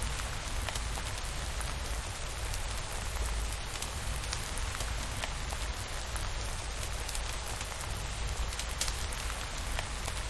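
Steady rain falling on a surface, with a low rumble underneath and scattered sharp clicks.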